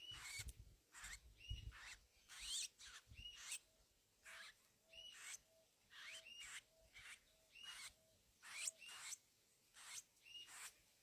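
Songbirds calling at a feeder: short sharp calls repeat about twice a second. A soft low note repeats several times through the middle stretch, with a few low thumps in the first few seconds.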